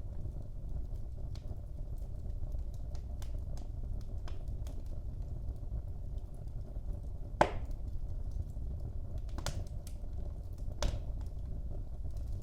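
Wood fire burning in a fireplace: a steady low rumble of the flames with scattered crackles and a few sharper pops.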